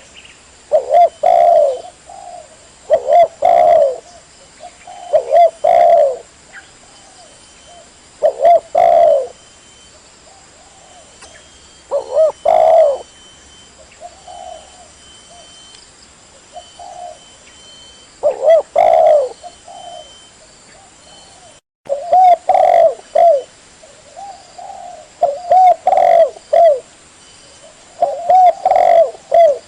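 Spotted dove (tekukur) cooing: loud, low coo phrases repeated about every two seconds, with a few softer single notes during a lull in the middle. The sound cuts out for an instant about two-thirds of the way through.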